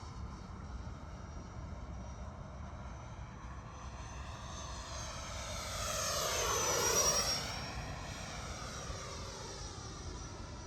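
FMS Super Scorpion's 90 mm electric ducted fan on 8S power, a rushing whine as the jet flies, swelling into a close fly-by about six to seven seconds in, its high whine dropping in pitch as it passes and then fading back.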